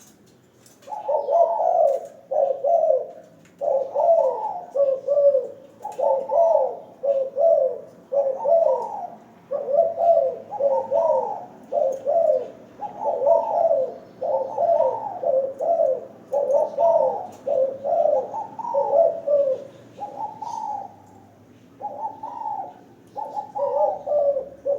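Spotted dove cooing over and over, one phrase after another, with a brief pause about four-fifths of the way through before it resumes.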